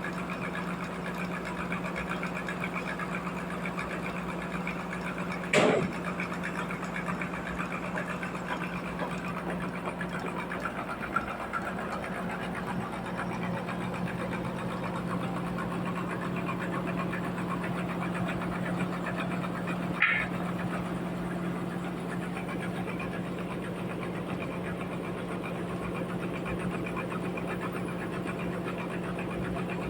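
Sawmill machinery running with a steady hum, broken by two sharp knocks, one about six seconds in and one about twenty seconds in.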